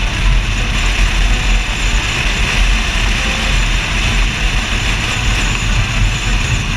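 Car noise heard through a camera mounted on the outside of a car door: a heavy, uneven low rumble of wind and road over a steady hiss.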